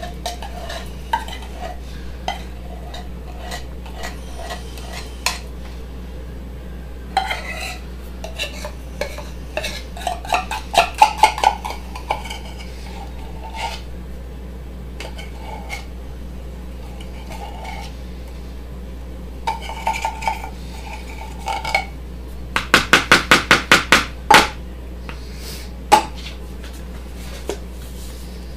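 A metal spoon clinking and scraping against a can and bowl as sweetened condensed milk is worked out onto chocolate chips. There are scattered clinks throughout, with two runs of quick, even tapping, one near the middle and one toward the end.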